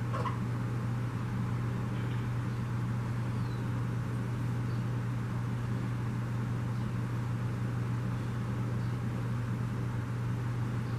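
Small water pump submerged in a bird bath, running with a steady low hum under the constant hiss and splash of the water jet it throws up.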